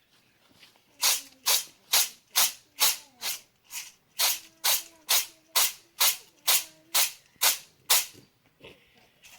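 Maize being struck by hand in a steady rhythm, about two blows a second, some sixteen in a row, stopping about eight seconds in.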